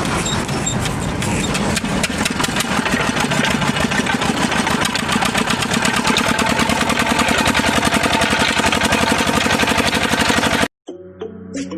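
Engine driving sugarcane-crushing machinery, running steadily with a fast, even knocking beat. It cuts off abruptly about a second before the end, replaced by music.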